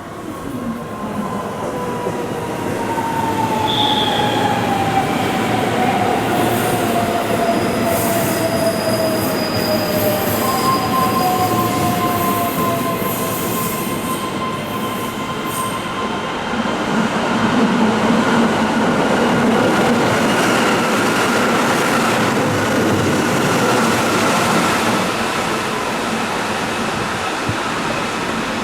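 Keihan Electric Railway train running through a curved elevated station: a steady rail rumble with thin squealing tones from the wheels on the curve. A slowly falling tone runs through the first ten seconds.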